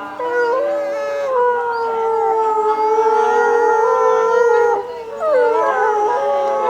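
A pack of wolves howling in chorus: several long, overlapping howls at different pitches, held and gliding. They break off briefly about five seconds in, then take up again. The howling is set off by the zoo's closing announcement.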